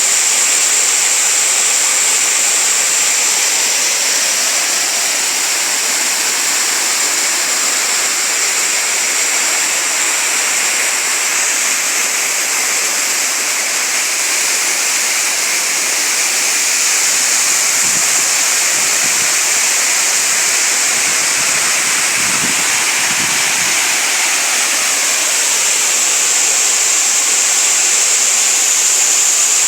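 Waterfall cascading into a rocky stream, a steady even rush of falling and running water. A few faint low thumps come in about two-thirds of the way through.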